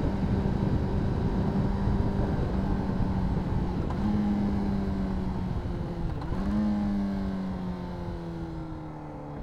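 Honda CBR600RR's inline-four engine running at steady revs under way, with a brief change in revs about six seconds in. Near the end the engine note falls steadily and grows quieter as the revs drop.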